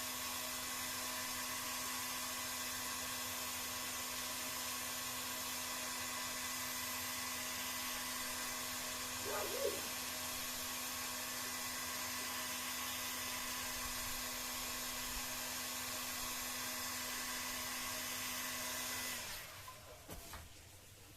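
Electric heat gun running steadily, a blower noise with a constant hum. It cuts off abruptly a couple of seconds before the end.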